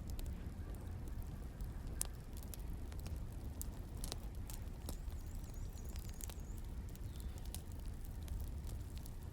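Wood fire burning: a steady low rumble with irregular crackles and pops, and a faint high whistle for a second or so in the middle.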